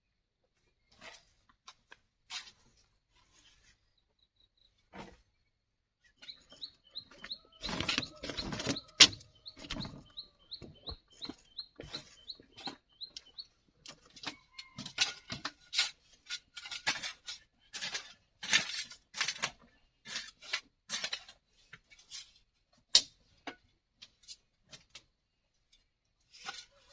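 A bird chirping in a quick, even series for several seconds, over irregular sharp knocks and clacks that are loudest near the start of the chirping and continue throughout.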